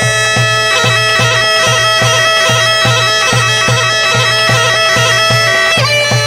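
Instrumental break in a Turkish Black Sea folk song: a reedy, bagpipe-like wind instrument plays a held, droning melody over a steady drum beat of about three strokes a second, with the melody shifting near the end.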